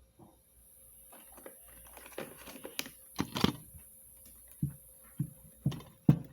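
Clicks and knocks of the vacuum cleaner's parts being handled and worked by hand, then four heavier thumps about half a second apart.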